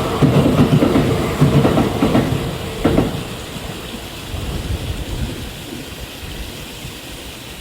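Kintetsu electric train passing, its wheels clattering over the rail joints in a clickety-clack rhythm. The clatter dies away after about three seconds, leaving a steady hiss.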